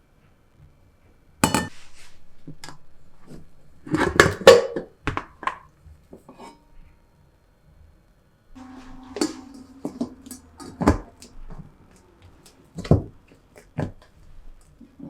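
Kitchenware being handled, with a sharp knock, then a quick cluster of clinks and knocks, then a few more scattered knocks.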